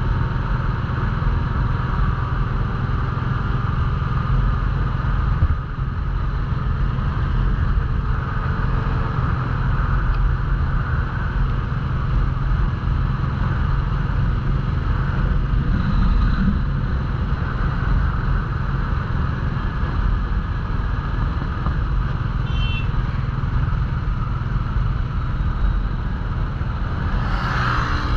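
Royal Enfield Classic 350's single-cylinder engine running steadily at cruising speed, with wind rushing past the rider.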